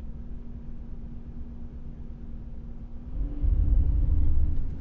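Vehicle engine heard from the driver's seat, running steadily at low revs, then rising in pitch and getting louder about three seconds in as the vehicle pulls away up a hill.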